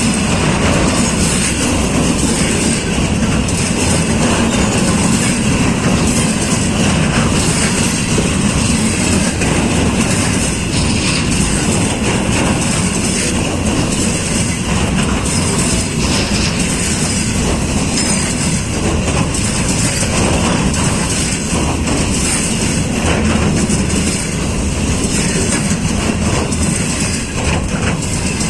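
Container freight train behind a VL11 electric locomotive rolling past at close range, its wagons' wheels running steadily over the rails.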